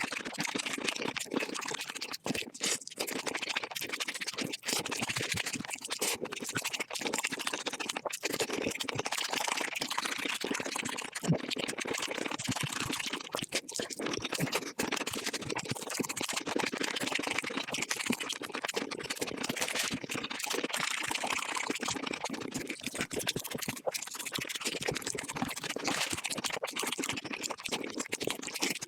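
Close-miked eating sounds of chicken dishes, sped up five times: chewing, crunching and wet mouth sounds run together into a dense, unbroken crackle of rapid clicks.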